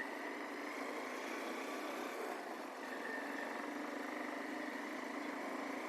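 Motorcycle engine running steadily amid road and traffic noise, with a faint steady whine.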